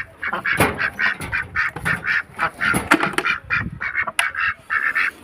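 A group of ducks quacking in a rapid run of short calls, several a second, overlapping one another.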